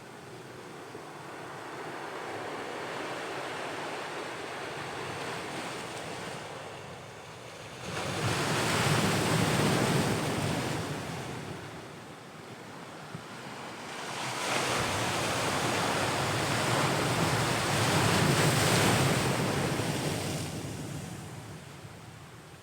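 Ocean waves washing onto the shore. A softer wash gives way to a wave breaking suddenly about a third of the way in. A second, longer surge follows after the middle, and each one recedes slowly.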